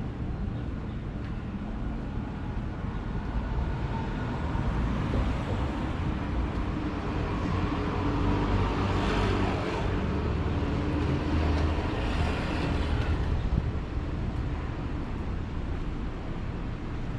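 Street traffic with a steady low rumble; a motor vehicle passes close by, its noise swelling over several seconds in the middle and then fading away.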